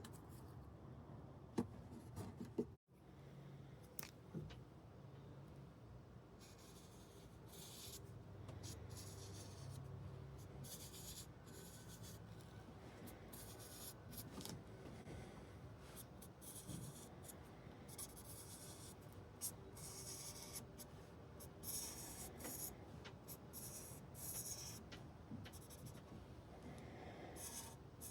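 Faint, irregular scratchy rubbing strokes on the frets of a Martin D-16 acoustic guitar during fret-levelling work, with a brief dropout about three seconds in.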